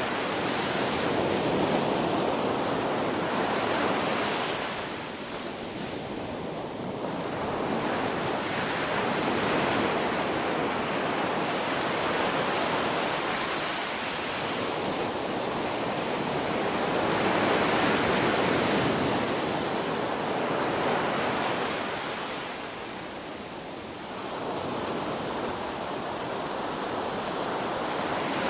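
Ocean waves breaking on a beach in a steady wash of surf, swelling and falling back in slow cycles of several seconds.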